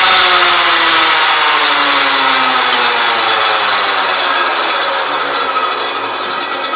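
Mogilev Liftmash IE-6009 household woodworking machine winding down after being switched off: its motor and spinning cutter coast to a stop, the hum falling steadily in pitch and slowly getting quieter.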